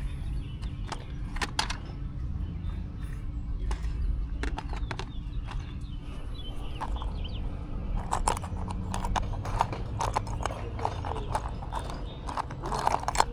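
Hard objects being handled and rummaged through, a string of light knocks and clicks that grows busier in the second half, over a steady low rumble.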